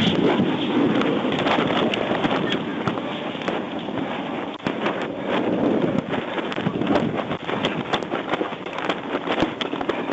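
A burning semi truck crackling and popping: many sharp, irregular pops over a steady rushing noise.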